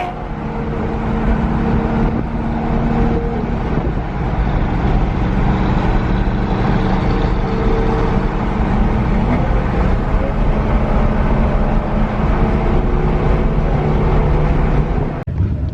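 Car on the move: a steady engine hum over road and wind noise. The engine's pitch holds level for a few seconds at a time and shifts now and then. The sound breaks off briefly near the end.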